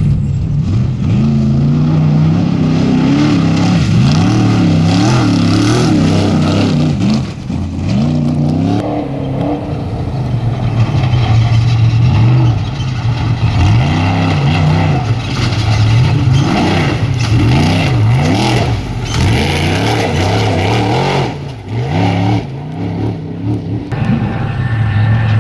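Off-road race vehicle engines revving up and down again and again over a steady low drone, with the revs swinging every second or two.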